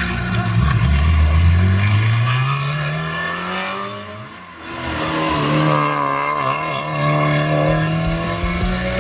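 Rally car engines accelerating hard, in two long pulls with the engine pitch rising steadily through each, and a brief dip in loudness between them about four and a half seconds in.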